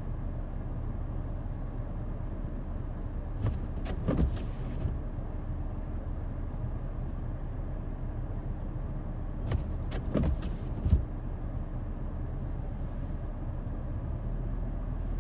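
A vehicle engine idling steadily, with a few short knocks and squeaks around four seconds in and again around ten seconds in.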